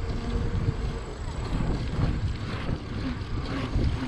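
Wind rumbling and buffeting on the camera microphone while riding a bicycle along a paved road, an uneven low rumble with a faint hiss above it.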